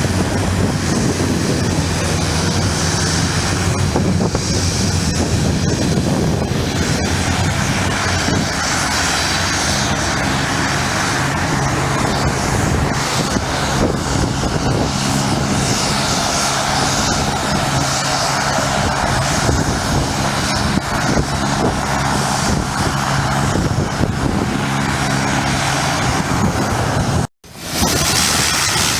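Propeller aircraft engine running steadily, with a droning hum whose pitch shifts slowly. It cuts off abruptly near the end.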